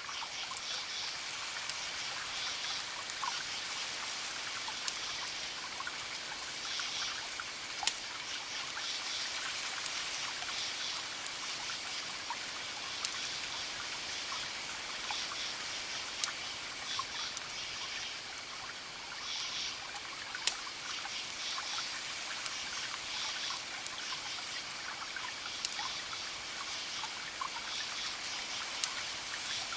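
Campfire crackling with scattered sharp pops, the loudest about eight and twenty seconds in, over a steady hiss of distant waves. Crickets chirp in short pulsed trills every few seconds above a faint steady high insect tone.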